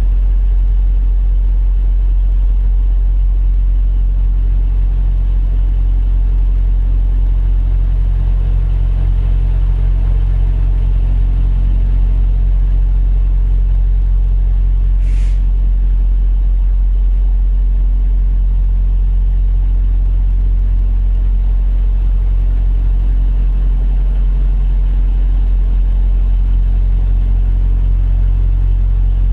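Semi truck's diesel engine idling: a steady low rumble, with one brief faint click about halfway through.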